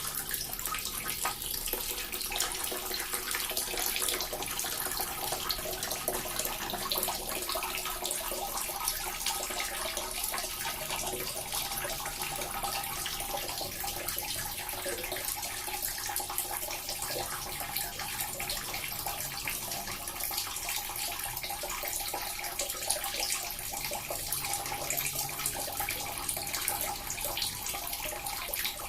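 Small water fountain running steadily: water trickling and splashing into a basin, with a constant fine patter.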